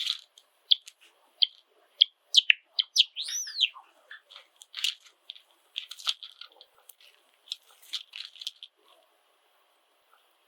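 Pet Java sparrows chirping: a string of short, sharp chirps and clicks, with one rising-and-falling call about three seconds in. It falls quieter over the last second or so.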